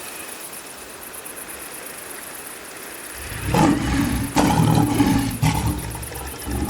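A large animal's deep calls, several in a row starting about three seconds in, with one more short call near the end, after a steady faint hiss.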